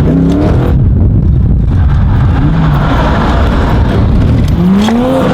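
Drift car engine revving hard, its pitch climbing near the end.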